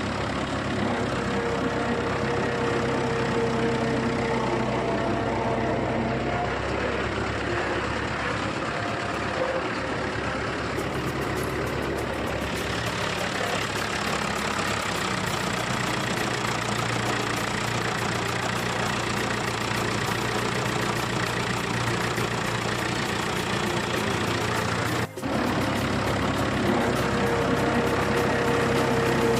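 A motor running steadily with a low hum and a constant whir, broken only by a very short dropout about 25 seconds in.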